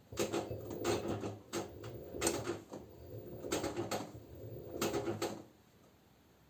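LG F10B9LD direct-drive washing machine drum turning over slowly after the spin, the laundry shifting inside with a series of soft clunks and rattles over a low motor hum, for about five seconds before it stops.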